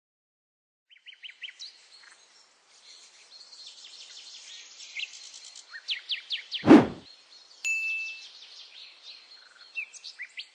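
Birds chirping in many quick, high, falling whistled notes and trills, starting about a second in. A single loud low thump comes about two thirds of the way through, followed by a short bright ding.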